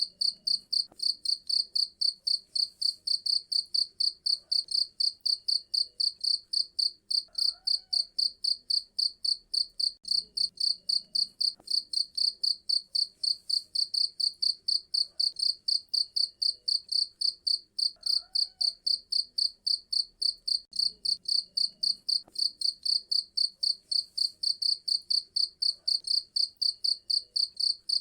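A cricket chirping steadily and shrilly, high-pitched pulses repeating at about four a second without a break.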